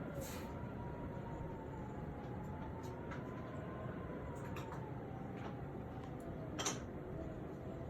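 Typhoon wind whistling through the gaps of shut windows and doors: a thin whistle that slowly rises and falls in pitch over a steady rush of wind. A few sharp clicks or rattles come through it, the loudest a little before the end.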